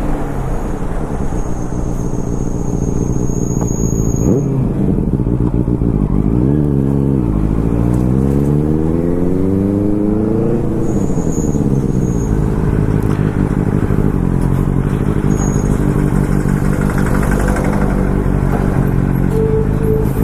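Superbike engine running under way, its pitch steady, then dipping about six seconds in and climbing steadily for several seconds as the bike speeds up, before dropping back and running level again.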